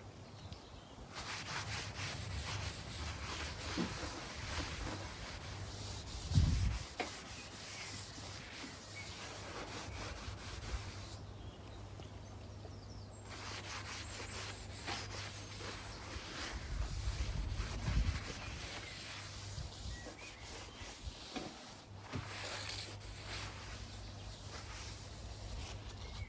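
Hand rubbing over the bare metal lawn mower deck in repeated scrubbing strokes, the deck being wiped down with degreaser after sanding; the rubbing pauses briefly about 11 seconds in. A couple of low thumps come through, the loudest about 6 seconds in.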